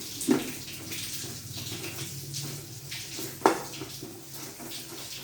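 Water running steadily with a low hum, and two sharp knocks, one just after the start and one past the middle, as the dust filter housing is tightened back on.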